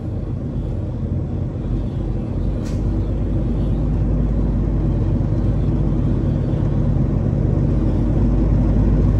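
Semi truck's diesel engine idling with a steady low rumble that grows gradually louder from about three seconds in, with one faint click near that point.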